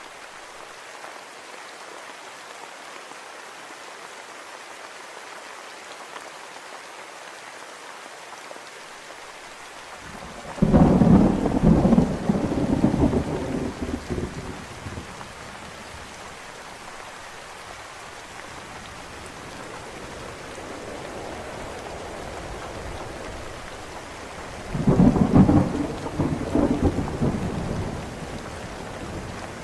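Steady rain falling, with two rolls of thunder: one rumbling for a few seconds about a third of the way in, another near the end.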